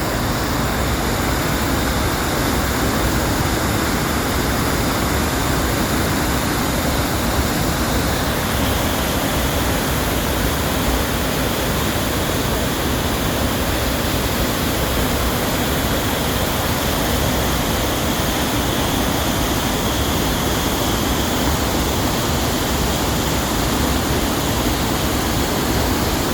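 Waterfall cascading, a loud, steady rush of falling water.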